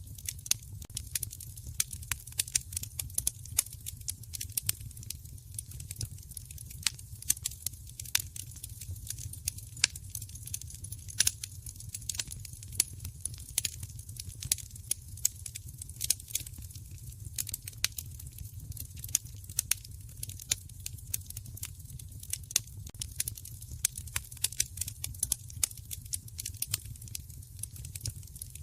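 Wood fire crackling in a fireplace: many sharp, irregular pops and snaps, several a second, over a steady low rumble.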